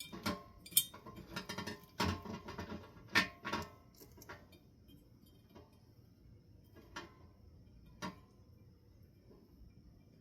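Light clicks and clinks of ceiling fan parts being handled during reassembly: a quick cluster of knocks in the first few seconds, then two single clicks later on.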